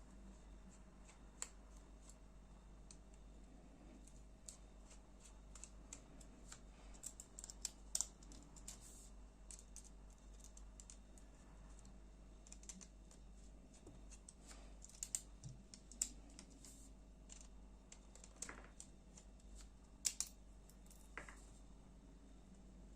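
Quiet, irregular small clicks and taps of a folding knife being taken apart with a small Torx screwdriver: the metal driver and knife parts clicking, with a few sharper clusters of clicks.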